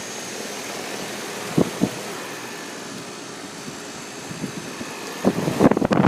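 Guardian 4-ton central air heat pump outdoor unit running steadily, its compressor and condenser fan making an even whooshing hum. Two brief knocks come in under two seconds in, and from about five seconds in a louder, irregular rumbling buffeting sets in over the hum.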